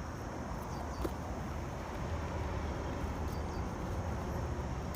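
Steady low background rumble with a faint even hiss, and one light click about a second in.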